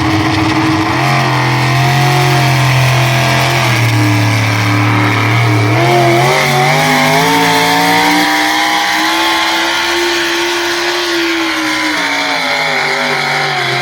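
A pulling vehicle's engine running hard under load on the track, loud throughout. Its pitch holds, dips, then climbs through the middle and falls away near the end.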